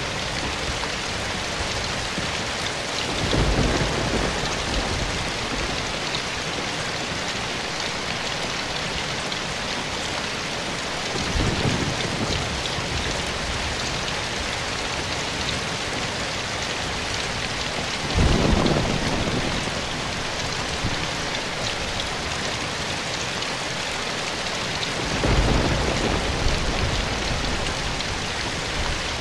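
Steady rain falling on forest foliage, a constant even hiss, with four brief low rumbles of distant thunder spaced about seven seconds apart.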